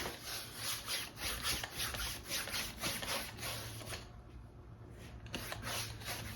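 Large filbert brush sweeping water across a stretched, gesso-primed canvas: back-and-forth rubbing strokes about two or three a second, pausing for about a second past the middle.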